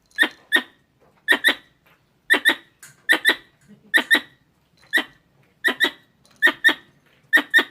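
Squirrel calls: sharp double chirps repeated steadily, about one pair a second, nine pairs in all.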